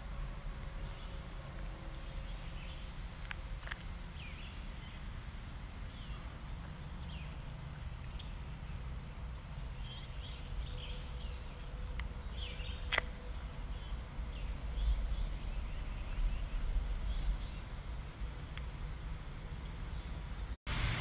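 Birds chirping: many short, high, falling chirps repeating, over a steady low rumble of background noise.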